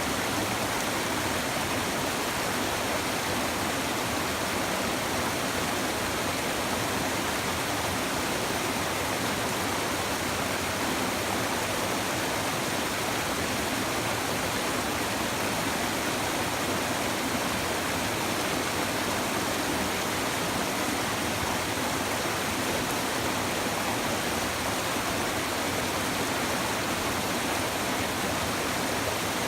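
Shallow stream babbling over stones, a steady even rush of flowing water.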